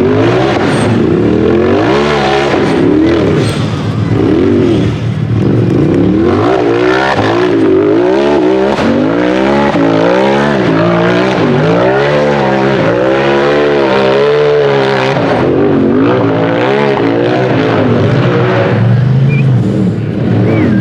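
UTV race engine driven hard, its revs rising and falling over and over, about once every second or so, as the throttle goes on and off.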